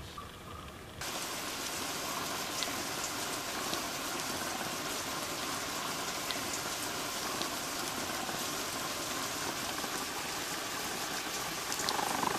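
Rain falling steadily, cutting in suddenly about a second in, with scattered drip ticks; water is pouring in through a leaking roof. A humming tone joins near the end.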